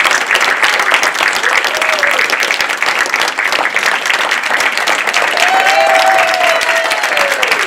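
Theatre audience applauding, a dense steady clapping, with a few voices calling out over it from about five seconds in.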